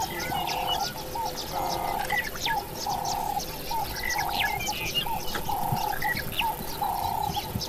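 Several birds chirping and calling, with one short call repeating about once a second under many quicker, higher chirps.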